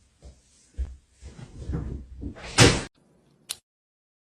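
A series of dull knocks and thuds, like a cupboard door being bumped, ending in one loud bang about two and a half seconds in and a short click a second later.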